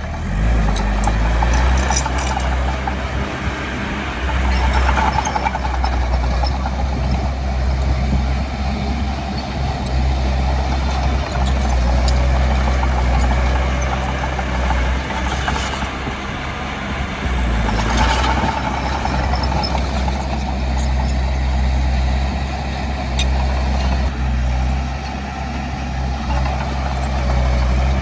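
Heavy earthmoving machinery's diesel engine running steadily under load, a continuous low drone, with a few brief high squeaks and clanks from the machine.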